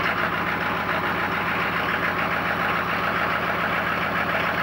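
1995 GMC 6.5L V8 turbo diesel idling steadily just after a cold start, with a rapid even diesel clatter. A couple of cylinders are still running a little cold.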